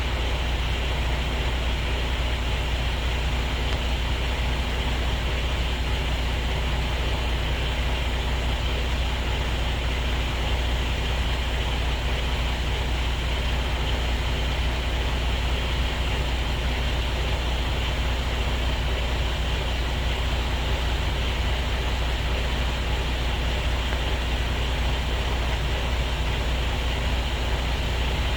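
Diesel truck engine idling steadily, holding an even low pitch with no revving.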